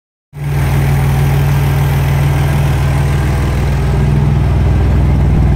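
Rat rod's engine idling steadily on its first run, exhausting through short flexible pipes off the manifold, with a strong, even low pulse.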